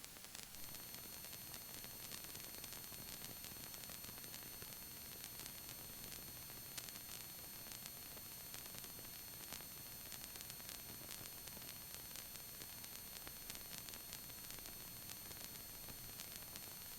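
Faint steady electronic hiss with a few thin, steady high-pitched whines and scattered faint clicks: the line noise of the helicopter's intercom and radio audio feed between transmissions, with no engine or rotor sound coming through.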